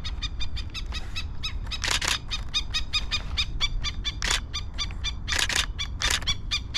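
Camera shutter firing in a continuous burst, a fast even run of clicks at about eight a second, with a few louder, harsher strokes among them.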